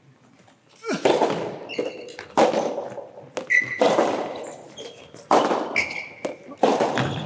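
Soft tennis rally: five racket strikes on the rubber ball about a second and a half apart, each echoing in the hall, with short shoe squeaks on the court between them.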